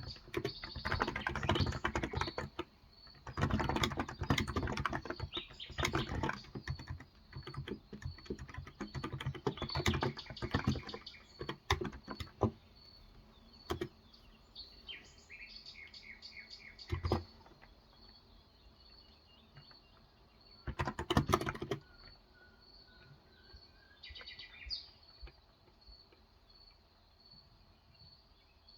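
Typing on a Cox Endeavor electro-capacitive (contactless, 35 g) tenkeyless keyboard: dense runs of keystrokes for about the first twelve seconds, then a few single keys and a short burst about twenty-one seconds in. Birds chirp in the background, most clearly in the quieter second half.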